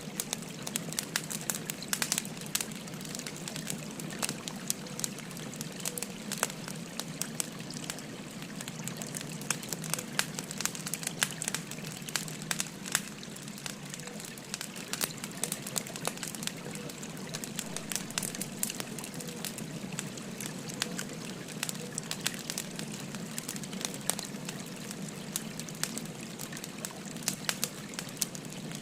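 Burning firewood crackling with frequent sharp, irregular pops, over the steady rush of a gently flowing stream.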